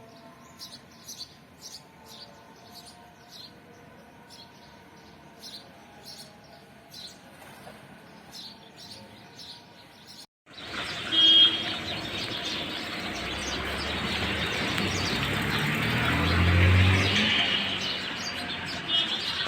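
Small birds chirping, short high chirps repeating over a quiet background. About ten seconds in it cuts suddenly to a much louder, noisier stretch with a low hum that swells and then eases off near the end.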